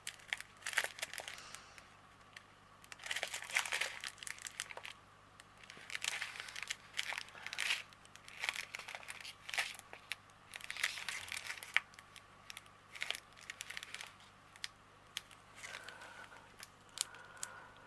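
Small plastic packets of diamond painting drills crinkling in irregular bursts as they are handled.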